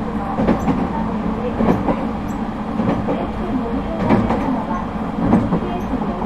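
Echigo TOKImeki Railway ET127 series electric multiple unit running between stations, heard inside the passenger car. There is a steady rumble of wheels on rail, with irregular knocks about a second apart.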